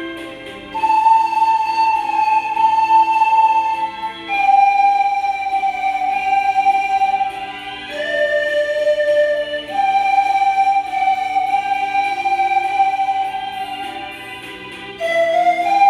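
Pan flutes playing a slow melody of long held notes, each lasting a few seconds with a slight waver, over a soft chordal accompaniment.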